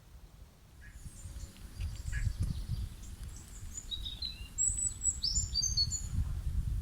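Songbirds chirping outdoors in a quick run of short, high, downward-sliding notes from about four seconds in, over a low rumble that rises out of near quiet in the first second or two.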